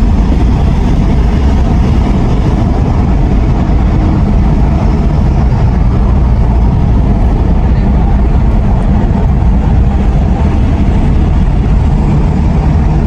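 An engine running steadily under a loud, unbroken low rumble and rushing noise, with no change in pace.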